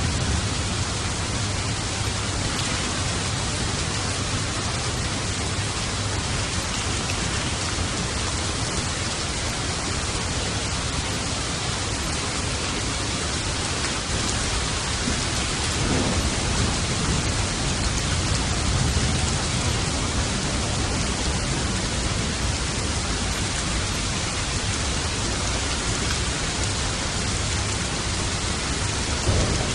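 Steady heavy rain with rolls of distant thunder, the thunder swelling about halfway through and again near the end.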